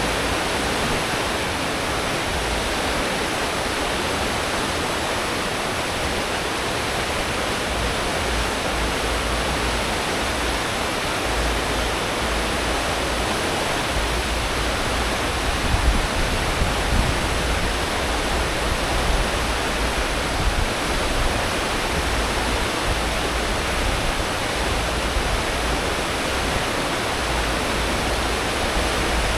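Wake of a cruise ship at full speed: a steady rush of churning water behind the stern, with a deep rumble from the engines and propellers that swells and fades underneath.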